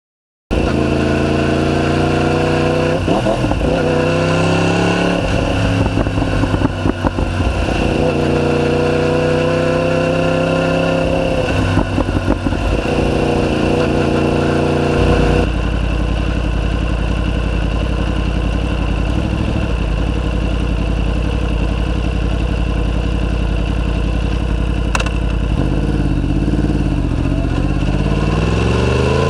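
Yamaha YZF-R1's crossplane inline-four running through an Akrapovic full titanium exhaust under way, its revs rising and falling through the first half. About halfway in the note changes abruptly to a steadier drone over a deep rumble, and the revs climb again near the end.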